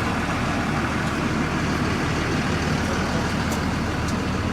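Army truck running steadily, a constant heavy rumble.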